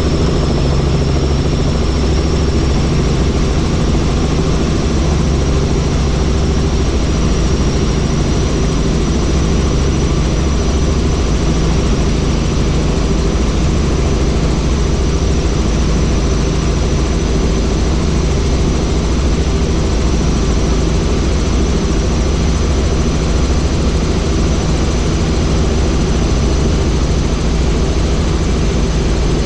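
Helicopter engine and rotor noise, loud and unchanging, with a deep steady hum and a thin high whine that slowly rises a little in pitch.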